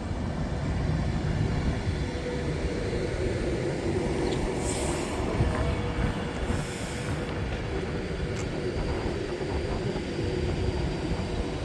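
Class 390 Pendolino electric train moving slowly through the station: a steady rumble with a faint, steady whine.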